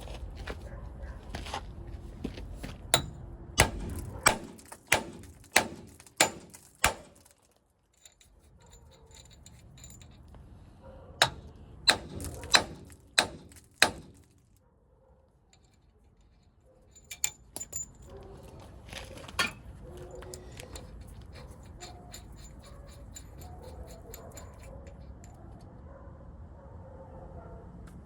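Metal striking metal in two runs of sharp, regular blows, about seven, then five, roughly one and a half a second, followed by a few lighter knocks.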